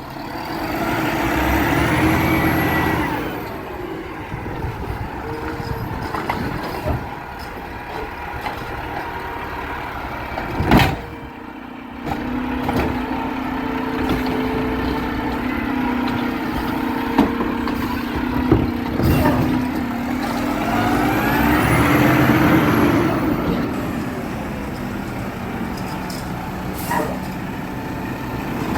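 Heavy truck traffic on a street: a steady engine hum with two vehicles swelling past, one near the start and one about two-thirds of the way in. A short sharp sound comes about eleven seconds in.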